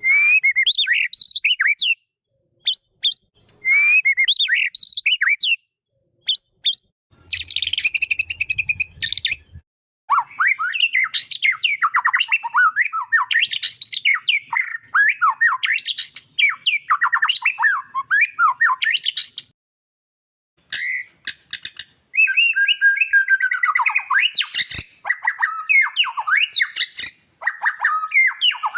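White-rumped shama singing: quick, varied whistled phrases broken by short pauses, with a harsh, noisy phrase about eight seconds in and a long unbroken run of fast warbling notes through the middle.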